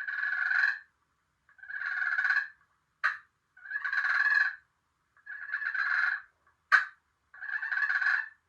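Turkey purr played on a turkey call: five rolling, rattly purrs, each just under a second long, with two short sharp notes between them. It imitates a hen's soft, contented feeding call.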